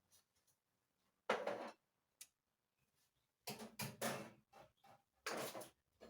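Faint handling noises in a small room: a few short bumps and rustles, the first about a second in, a cluster in the middle and one more near the end.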